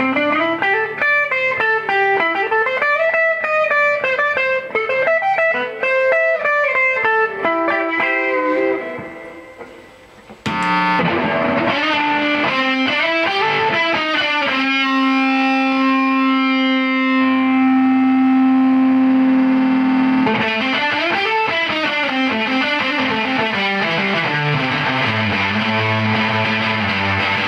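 Electric guitar played with a little reverb, picking a melodic line that fades away. About ten seconds in, after a click, the guitar comes back loud through a triple fuzz pedal: a dense fuzzed line, a long held note, then fuzzed chords.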